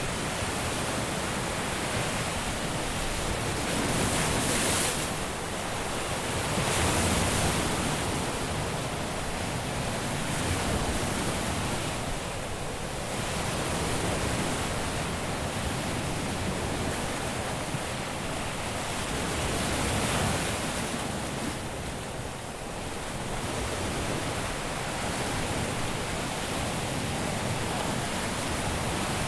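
Caribbean sea waves washing onto a beach: a continuous hiss of surf that swells every few seconds as a wave breaks and washes up, then settles back.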